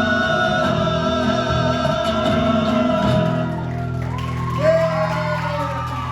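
Live singers and instruments end a folk song on a long held chord. About four seconds in the chord gives way to shouts and cheers of voices, the start of the applause.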